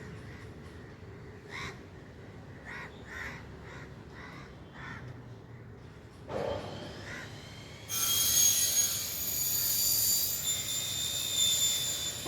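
About six short bird calls in the first half, then, from about eight seconds in, a loud, shrill, high-pitched squeal made of several steady tones.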